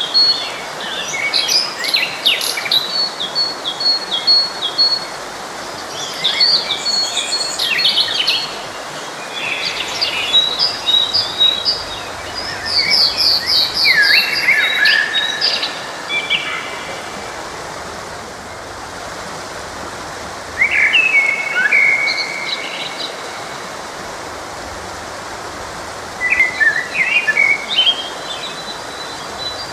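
Songbirds singing in short chirping phrases, trills and whistles over the steady rush of a forest stream; the song comes in bursts with brief lulls in the middle and late on.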